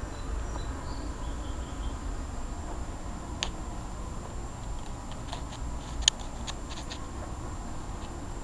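Carrier Performance Series heat pump outdoor unit running in cooling mode: a steady low hum of compressor and condenser fan. A few faint, short clicks come in the middle.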